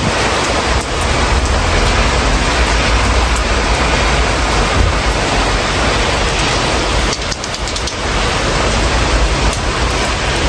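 Steady rain heard through an open window, an even hiss with a low rumble beneath it. The sound eases briefly about seven seconds in.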